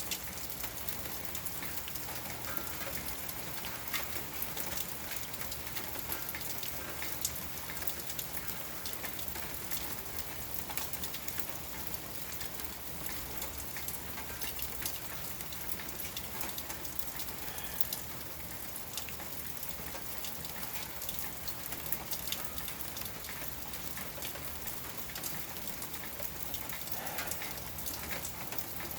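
Steady light rain falling, with many small drops pattering on hard surfaces.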